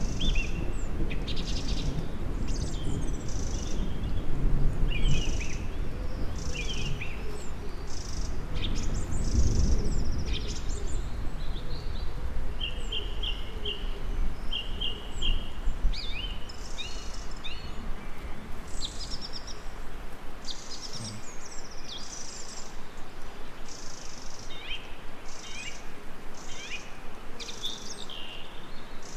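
Several songbirds singing and calling in short chirps and trills. A low rumble underneath in the first half fades away after about ten seconds.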